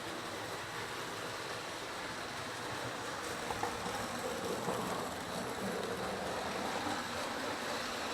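Several electric model trains running at once on a test board's loops of track (O gauge Lionels, an American Flyer S gauge, HO and N scale), their motors and wheels on the rails making a steady mechanical running noise.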